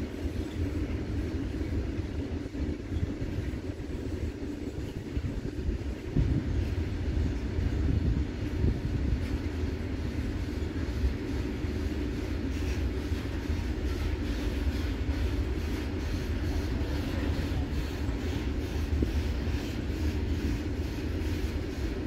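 Loaded open coal wagons of a freight train rolling past: a steady low rumble of steel wheels on rail with frequent clacks and knocks as the wheels cross rail joints, a little louder from about six seconds in.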